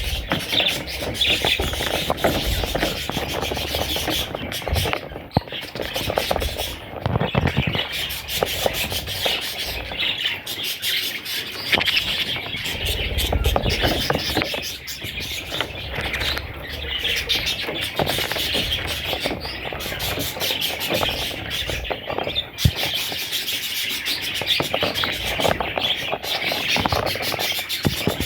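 Budgerigar chicks calling continuously, a dense, unbroken high-pitched chatter.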